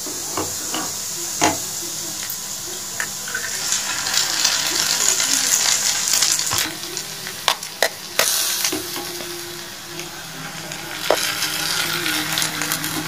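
Chopped onions, green chillies and curry leaves sizzling in hot oil in a kadai as eggs are cracked into the pan. There are several sharp clicks and taps from the wooden spatula and the shells on the pan. The sizzle swells a few seconds in.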